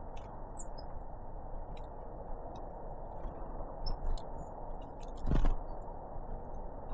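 A few short, high chirps from great tits and blue tits feeding, with scattered sharp clicks over a steady low hiss. A dull thump comes about five seconds in.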